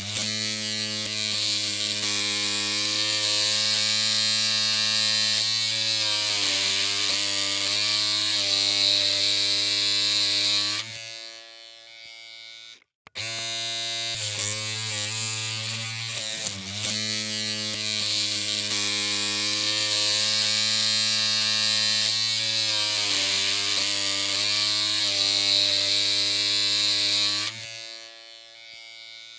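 Electric hair clippers running with a steady buzzing hum. About 11 s in the sound drops to a quieter hum and cuts out briefly, then the same steady buzz starts again and drops away near the end.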